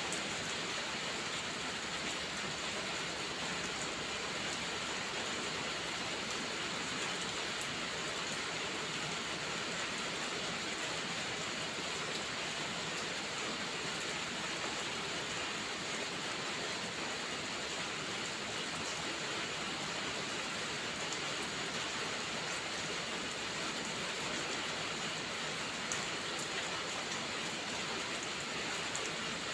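Steady heavy rain, an even hiss, with faint scattered ticks and one slightly louder tick near the end.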